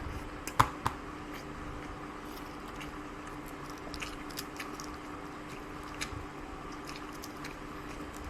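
Close-up eating sounds: chewing with scattered small wet clicks and a couple of sharper clicks about half a second in, over a steady low hum.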